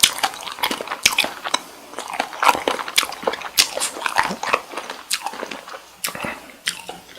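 Close-miked chewing of cooked cocktail shrimp: soft wet bites and smacking mouth sounds, irregular and several a second.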